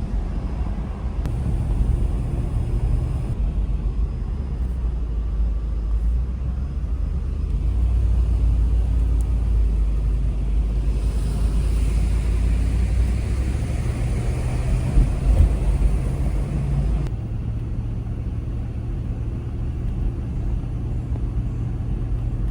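Lexus LX 470's 4.7-litre V8 and its tyres rumbling steadily as the vehicle is driven, heard from the cabin, with the engine note shifting a few times. A stretch of louder hiss comes about halfway through.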